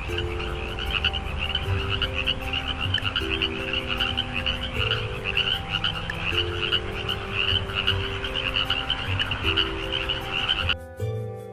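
A chorus of frogs calling in dense, rapid trills, with a simple background melody underneath. Both stop abruptly near the end.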